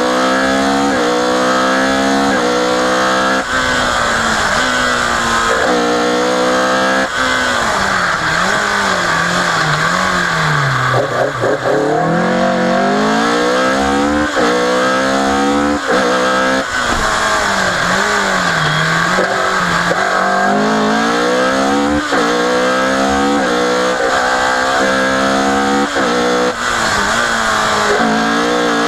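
Opel Kadett C Coupé rally car's engine at full throttle, its pitch climbing through the revs and dropping back at each upshift about every two seconds. About a third of the way in the revs sink and waver as the car slows, then it pulls up through the gears again.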